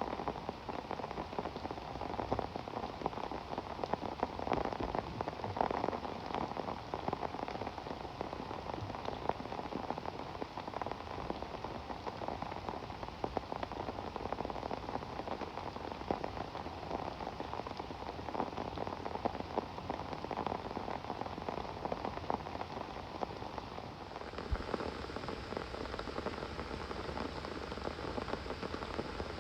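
Steady rain falling, with many individual drops striking close by. The sound shifts slightly in tone about 24 seconds in.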